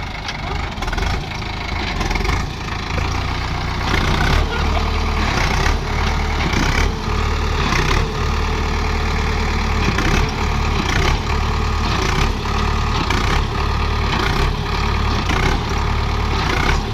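A tractor's diesel engine running steadily with a deep rumble. It gets louder between about two and four seconds in, and there are scattered sharp knocks throughout.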